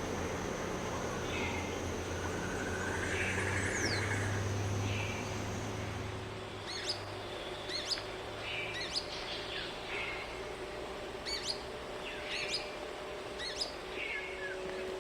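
Wild birds calling, with a run of short, sharp, high calls repeating about once a second from around halfway through, over a low steady background hum.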